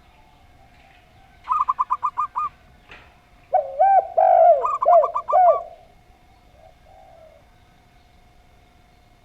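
Zebra dove and spotted dove cooing. A rapid run of about eight short notes comes about a second and a half in. From about three and a half to five and a half seconds, lower, louder drooping coos overlap a second rapid run. A faint steady hum sounds underneath.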